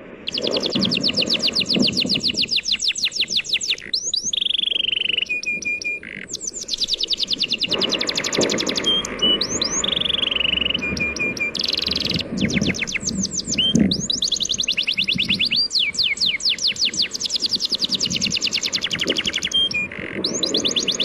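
Birds singing in fast trills of rapidly repeated chirps, broken by a few short held whistles; the song begins abruptly. Underneath runs the low wash of sea waves.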